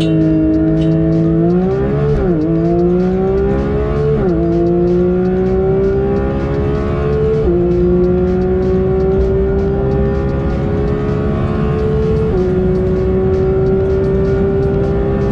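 Porsche 992 911 GT3's 4.0-litre naturally aspirated flat-six at full throttle, accelerating hard from a launch. The note rises steadily in pitch through each gear and drops sharply at four quick upshifts, with the gaps between shifts growing longer as the gears get taller.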